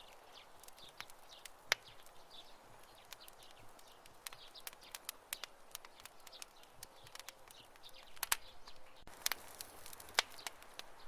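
Wood campfire crackling: irregular sharp pops and snaps over a soft steady hiss, with faint short chirps in the background. The hiss grows a little brighter about nine seconds in.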